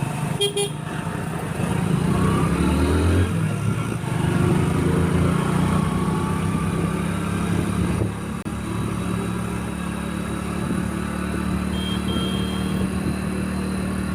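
Motorcycle engine running steadily while riding along the road, with road noise.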